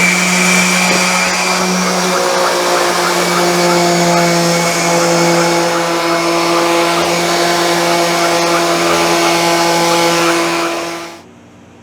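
Electric power sander running steadily on wooden drawer parts, then switched off about eleven seconds in.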